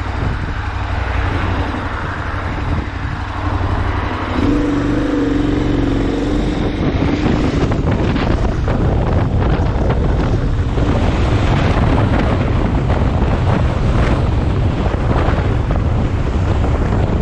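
Heavy wind buffeting the microphone over road and vehicle noise. About four seconds in, a steady engine drone stands out for a couple of seconds.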